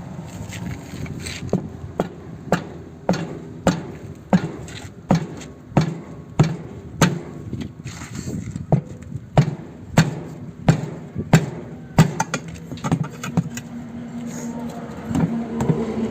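Repeated hammer blows at a steady pace, about one and a half a second, for roughly twelve seconds, then stopping.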